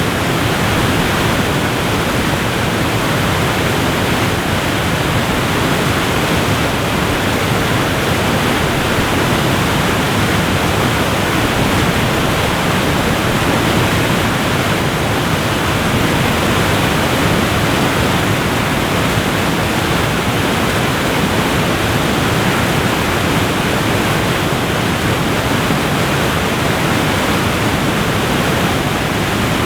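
Waterfall rushing: a steady, loud, even roar of falling water with no breaks or changes.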